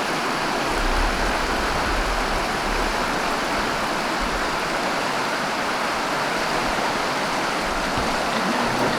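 Steady rush of flowing water from a stream or small waterfall, with brief low rumbles on the microphone about a second in and again near the end.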